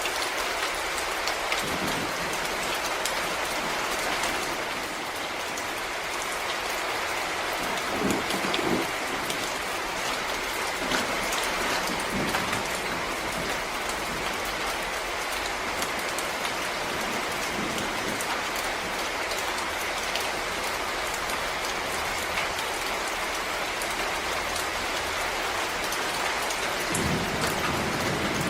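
Steady rain falling on forest leaves and ground, an even patter with scattered heavier drops striking close by.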